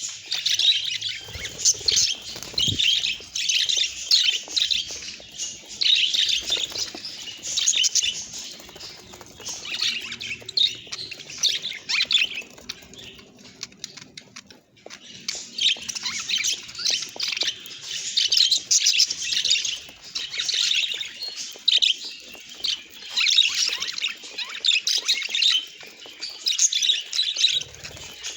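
Budgerigar chatter: rapid, continuous chirping, warbling and squawks, with a short lull about halfway through.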